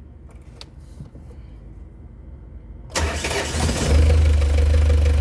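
Diesel engine cranking about three seconds in and catching within about a second, then settling into a steady idle. It starts readily on newly fitted glow plugs after the old ones tested bad.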